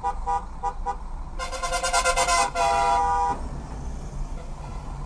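Car horn honking: a few quick toots, then a long blast of about two seconds, over a steady low rumble of road and engine noise.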